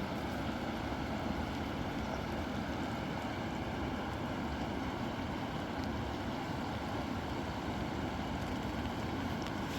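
River water rushing steadily, an even noise with no break.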